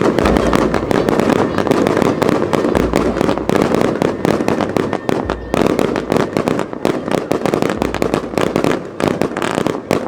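Fireworks display: a dense volley of shell bursts, many sharp bangs in quick succession with crackling, over a continuous rumble.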